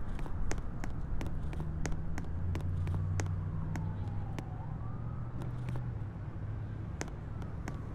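Subway platform ambience: a steady low rumble with a faint siren in the distance, its pitch sliding down and then back up near the middle. Scattered sharp clicks and ticks run through it.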